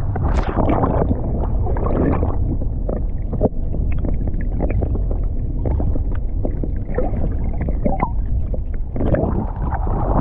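Wind buffeting the microphone in a steady low rumble, with water slapping and gurgling against the hull of a small boat in many short knocks.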